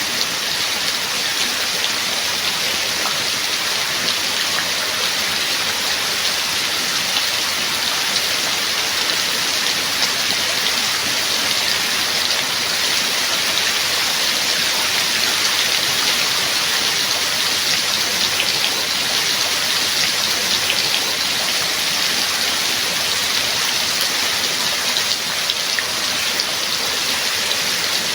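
Steady heavy rain falling, an even hiss with many small drop ticks on a surface throughout.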